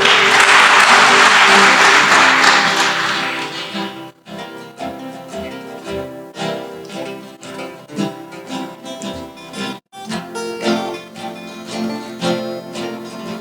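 A guitar ensemble playing a blues on acoustic guitars. At the start a burst of applause, typical of an audience clapping a solo, rises over the playing and fades within about three seconds. The sound cuts out briefly about four and about ten seconds in.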